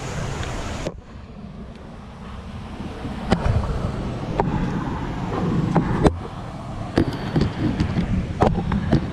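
Wind rumbling on a handheld action camera's microphone, with scattered sharp knocks as the camera bumps and is handled during a rock scramble. A steady rushing noise stops abruptly about a second in.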